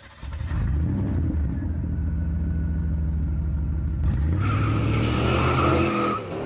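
1968 Toyota Corona coupe's engine running steadily, then revved up about four seconds in and easing off near the end.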